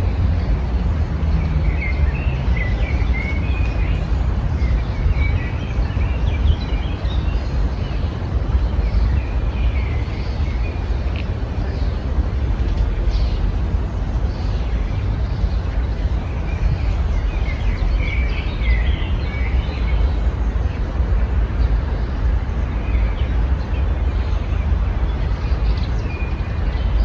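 Small songbirds chirping and twittering in scattered short runs over a steady low rumble.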